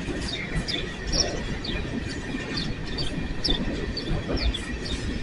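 Empty coal train's cars rolling slowly past through yard trackwork. Wheels squeak and squeal in frequent short high chirps over a low rolling rumble, with a faint steady high squeal underneath.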